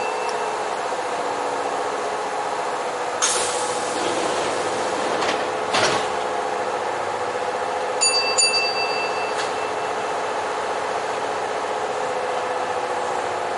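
Electric commuter train running, heard from inside the cab: a steady hum with a fixed tone, and two short bursts of hissing noise about three and six seconds in. About eight seconds in comes a pair of quick high electronic beeps.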